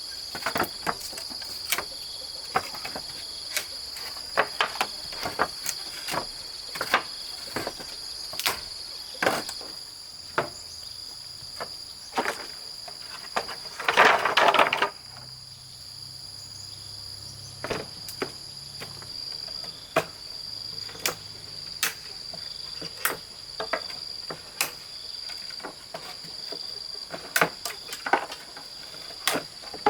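Steady high-pitched drone of insects, with sharp knocks and taps every second or so from work going on close by, and one louder rustling burst about halfway through.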